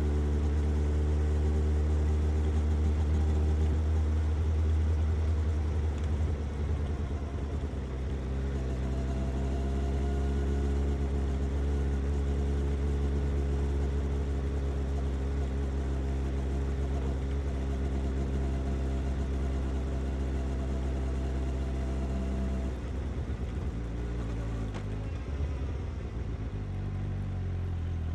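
Suzuki GSX-S750's inline-four engine running at a steady speed with an even exhaust note. Late on, the pitch drops as the engine slows.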